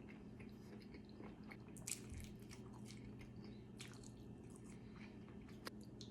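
A person chewing a big mouthful of an egg taco close to the microphone: soft, wet mouth clicks and smacks, with a sharper click about two seconds in and another near the end. A faint steady low hum runs underneath.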